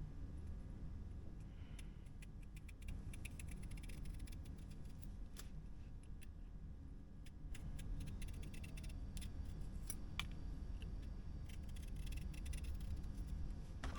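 Scattered light clicks, taps and rattles of small objects being handled, over a steady low rumble.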